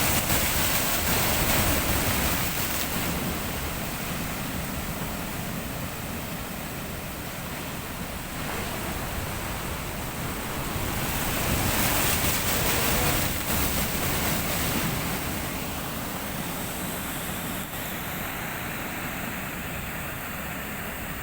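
Sea waves breaking on a shore, a steady wash of surf that swells louder twice, near the start and about halfway through.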